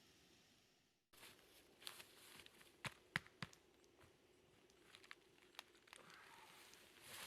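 Faint handling noises: a few sharp snaps and crackles over a quiet outdoor hiss, after a brief drop-out about a second in.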